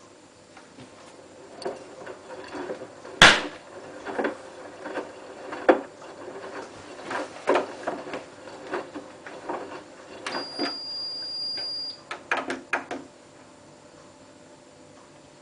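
Irregular clicks and knocks of things being handled at a washing machine, with one loud sharp click about three seconds in. A steady high beep lasts under two seconds about ten seconds in.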